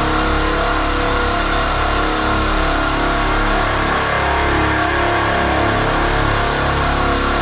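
Car engine running with a steady, unbroken drone.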